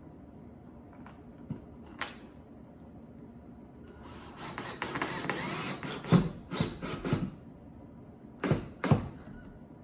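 Hand work on workshop parts: a scraping rub lasting about two seconds, then several sharp knocks, with two more knocks near the end.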